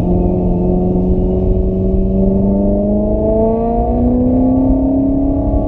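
Car engine accelerating under load, its pitch holding for about two seconds and then climbing steadily without a gear change, over a heavy low rumble of road and wind noise.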